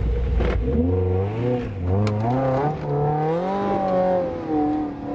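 Small 4x4's engine revving hard under load as it climbs a steep dirt mound, its pitch rising in steps and easing back near the end, with a few short knocks.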